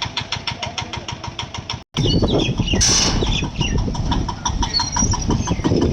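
Rice combine harvester's engine running with an even rapid knock, about seven beats a second. After a sudden cut about two seconds in it runs louder, with a brief hiss about a second later.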